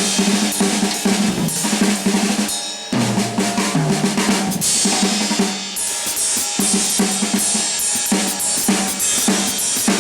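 Jazz drum kit being played busily: a dense run of snare, bass drum and rimshot strokes with cymbals, broken by a short gap just before three seconds in.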